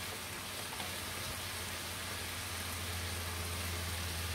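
Chicken pieces frying in a pan with curry spices: a steady, even sizzle, with a low steady hum underneath.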